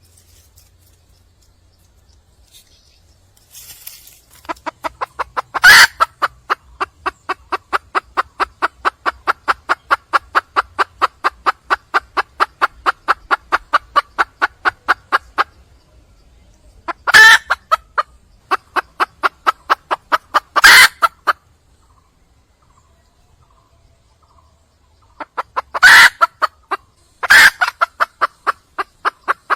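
Red junglefowl hen calling in long runs of rapid, evenly repeated clucks, about four a second, with a few much louder calls breaking in. The calls stop twice for a few seconds and start again.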